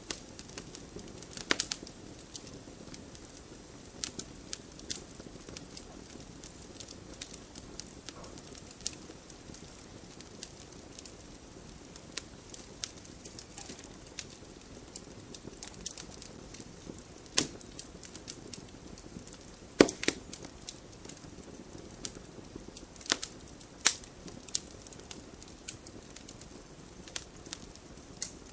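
Wood fire burning in a fireplace: a low steady hiss of flames with irregular crackles and sharp pops, the loudest pops a little past the middle and again near the end.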